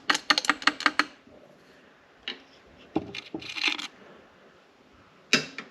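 Broken metal engine parts and fragments clinking and rattling as they are handled: a quick run of about ten light metallic clicks in the first second, then a few separate clicks and a short rattle.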